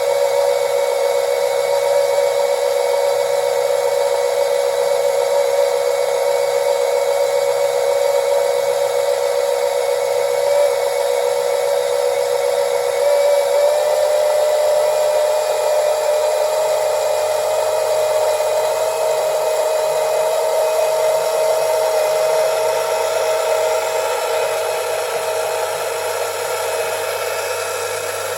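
A 12 V DC oil extraction pump running steadily, drawing old motor oil out of the engine. Its motor whines at a steady pitch that rises slightly about halfway through.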